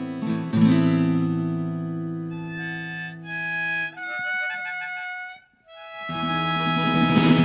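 Instrumental passage: strummed acoustic guitar chords ringing out, then a harmonica playing a few long held notes. The music drops out almost entirely for a moment about five and a half seconds in, then strummed guitar comes back in with the harmonica.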